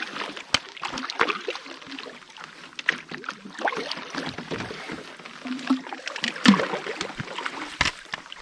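Irregular clunks and knocks with water sloshing around a canoe, as firewood is handled and passed over.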